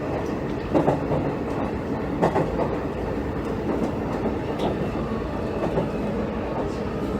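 Hanshin 5700 series commuter train running, heard from inside the car: steady rumbling running noise with irregular clicks and knocks of wheels passing over rail joints.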